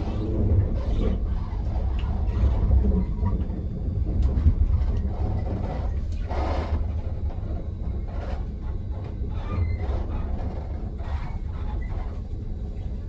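Low, steady rumble of a moving diesel regional train heard from inside the passenger car, with scattered clicks and clatters as the wheels run over rail joints and points.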